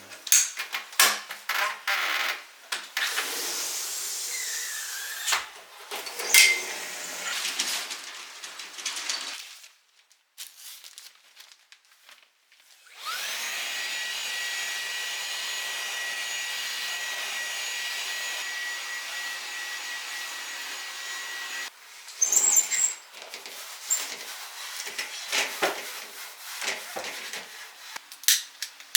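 Brushing and scraping with scattered clicks, then a small vacuum cleaner switched on a little under halfway through. It spins up and runs steadily with a high whine for about nine seconds, then cuts off, followed by more clicks and rubbing: dry dust being cleared from a window.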